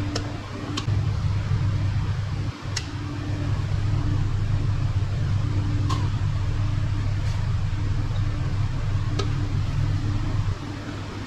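Steady low machine hum with a brief dip a couple of seconds in and a drop near the end, with about six sharp clicks or taps scattered through it.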